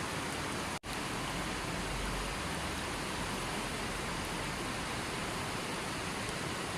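Steady, even rushing noise of heavy rain, cut off for an instant just under a second in by a gap in the recording.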